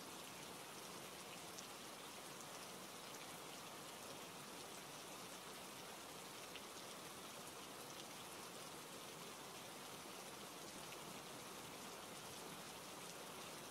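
Quiet, steady rain falling: an even hiss with faint scattered drop ticks.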